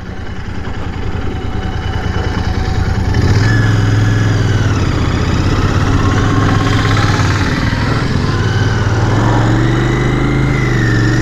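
Royal Enfield Continental GT 650's 648cc parallel-twin engine pulling away and accelerating. It grows louder over the first three seconds, then runs at higher revs with the note rising and falling.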